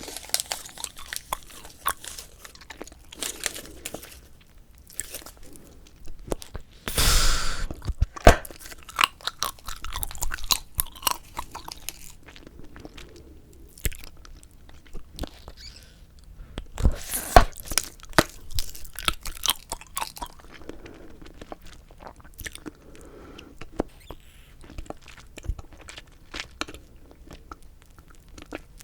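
Close-miked bubble gum chewing: a steady stream of wet smacking and clicking from the mouth, with a few louder sharp snaps, about 8 and 17 seconds in.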